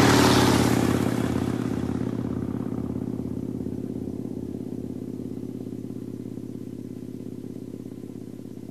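Motorcycle engine: a loud swell at the start, then a steady, loping idle with an even low pulse of about two to three beats a second, slowly fading away.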